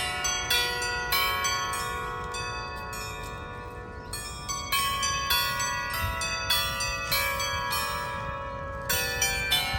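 A set of bells ringing, struck one after another roughly every half second so their long ringing tones overlap. The strikes thin out and fade a little around the middle, then pick up again and are louder near the end.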